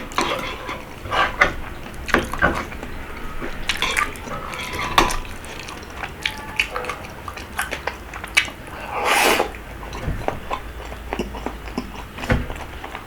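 Eating rabokki: utensils clicking and scraping against the bowl amid wet, saucy food and mouth sounds, a string of short clicks with a longer noisy burst about nine seconds in.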